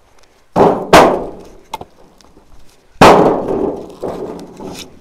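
Split firewood logs being tossed down onto other logs: two hard wooden knocks close together about half a second in, then a heavier drop about three seconds in that clatters on for about a second.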